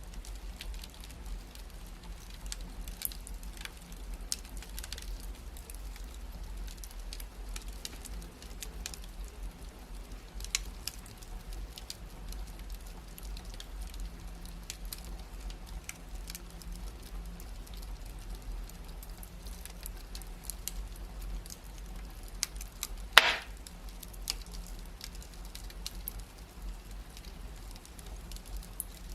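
Wood fire in a fireplace crackling steadily, with many small scattered pops and one loud sharp pop about three-quarters of the way through, over a low steady hum.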